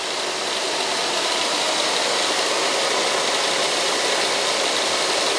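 Steady mechanical running noise of HVAC lab equipment, an even rushing hiss with no breaks or rhythm.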